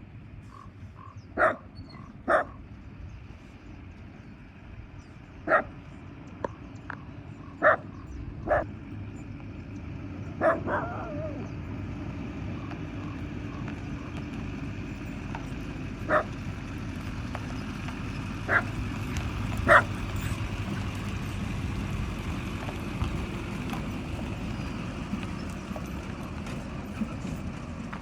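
A dog barking in short single barks scattered through, with one longer call about ten seconds in, over a low steady rumble that grows louder from about ten seconds in.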